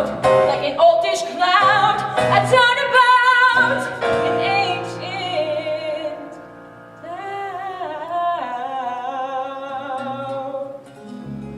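A song from a stage musical: a voice sings long held notes with vibrato over instrumental accompaniment. The voice dips away about six seconds in and comes back softer, and a low accompaniment line enters near the end.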